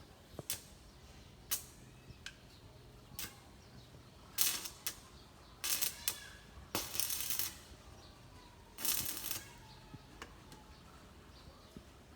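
Short bursts of arc-welding crackle, four of them, each lasting under a second, with scattered sharp metallic clicks and taps between them.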